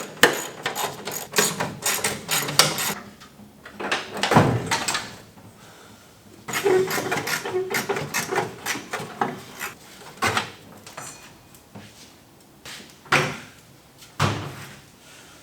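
Radiator being pulled out of a Dodge D150 pickup's engine bay: a quick run of clanks and rattles, a heavier knock about four seconds in, some scraping, then a few separate knocks near the end.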